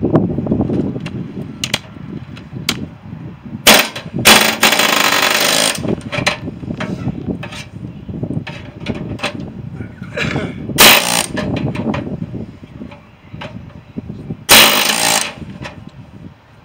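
A power tool running in short bursts, the longest about a second and a half and rapid-fire, with scattered metal clanks and knocks between them, as scrap metal is taken apart.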